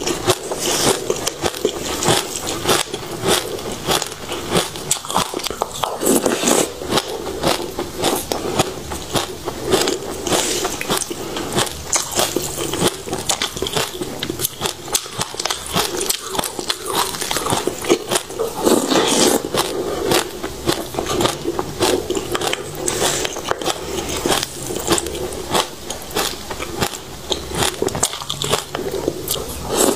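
Crunching and chewing a spoonful of passion fruit seeds under a crisp seed-and-grain topping. A dense, continuous run of small crackling crunches.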